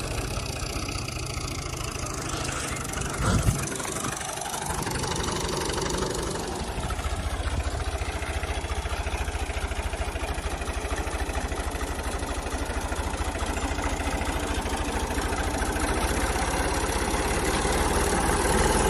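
Tractor diesel engine running steadily at low revs, with a sharp knock about three seconds in; from about seven seconds the low engine beat becomes steadier and stronger.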